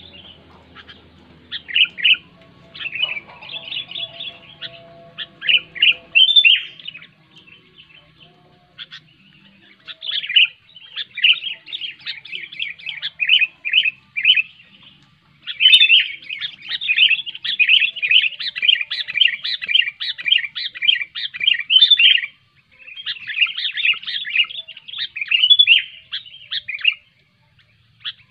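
Sooty-headed bulbul (kutilang) singing loudly in long runs of quick, chattering, warbled notes. There is a pause of a few seconds early on and short breaks between the later phrases.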